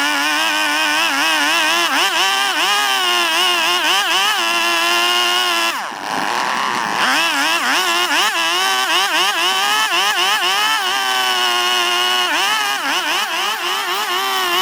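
Gasoline two-stroke chainsaw running under load while carving Chinese toon wood, its engine pitch wavering constantly as the chain bites. Near the middle the revs fall away briefly, then climb back up as the cutting resumes.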